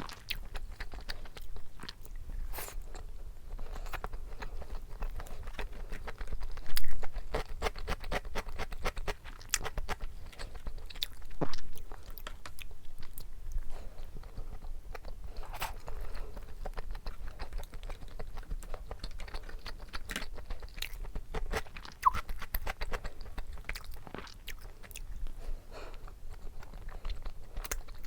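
Close-miked eating sounds: a person chewing and biting food, with many small wet clicks and crunches and a few louder ones.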